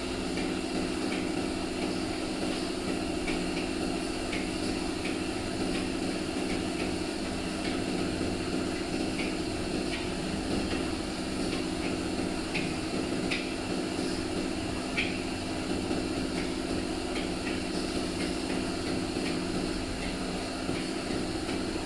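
A steady low mechanical hum with scattered light ticks and taps at an uneven pace.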